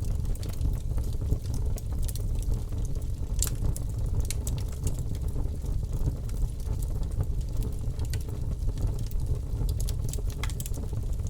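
Bonfire burning, with irregular sharp crackles and pops of burning wood over a steady low rumble.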